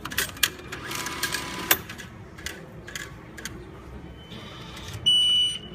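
Takamizawa VTQ ticket machine's IC card unit making a loud whirring, rattling noise for about a second and a half, then a few clicks; the uploader suspects a fault in the card processing unit. About five seconds in, the machine's loud, high-pitched warning beep sounds.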